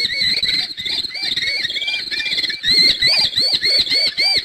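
Falcon calling: a rapid series of short, shrill repeated cries, getting sharper and more distinct over the last second and a half before cutting off.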